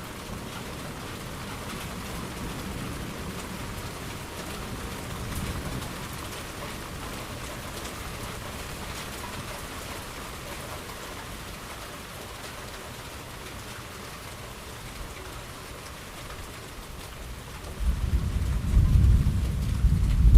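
Steady rain falling, an even hiss of drops. Near the end a loud, low roll of thunder breaks in suddenly and keeps rumbling.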